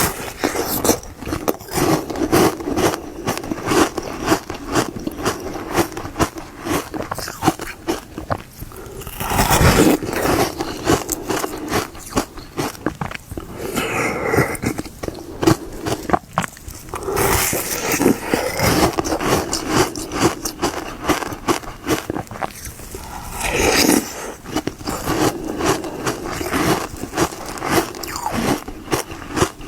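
Close-up biting and chewing of a hard frozen ice bar: a dense run of crisp crunches and cracks, with a few longer, louder grinding crunches.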